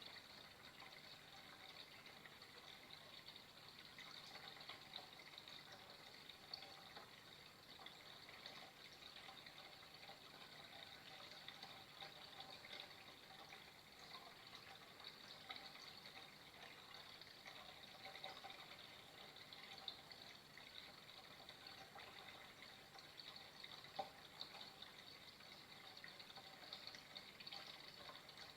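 Faint, steady flowing water, a continuous trickling rush with small drips and splashes.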